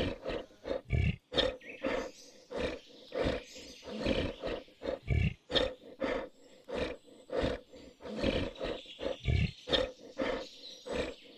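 Tiger roaring and growling in a long series of short, repeated calls, about one and a half a second.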